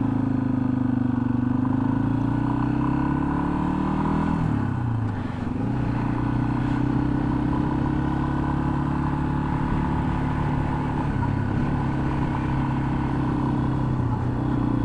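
Yamaha XT250's single-cylinder four-stroke engine running steadily under way. Its pitch drops briefly about four to five seconds in, then holds steady again.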